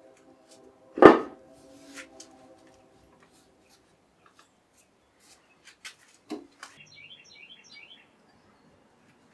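Metal tools and engine parts being handled: a sharp metallic clank about a second in that leaves a ringing tone, then a few light clicks and taps. A brief run of high chirps near the end.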